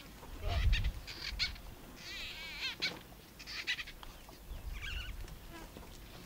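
Wild birds calling over and over, short warbling, trilled calls repeated every second or so. A brief low rumble comes about half a second in.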